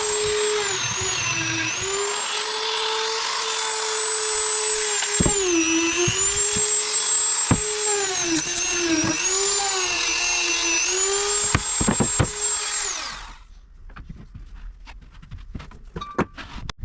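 Dremel rotary tool running at high speed and grinding rust out of a steel crowbar, its whine dipping in pitch again and again as it bears on the metal. It winds down and stops about thirteen seconds in, followed by light clicks and knocks of handling.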